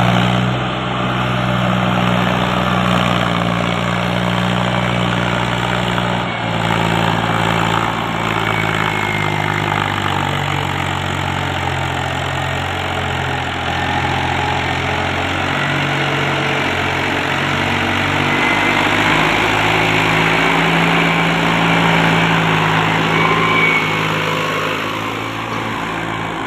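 Mahindra 265 tractor's diesel engine running, its pitch shifting up and down a few times as the engine speed changes.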